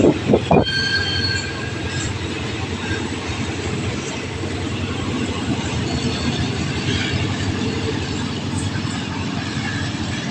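A train running through a station with a steady rumble of wheels on rails. It opens with two loud thumps, followed by a brief high wheel squeal for about a second and a half.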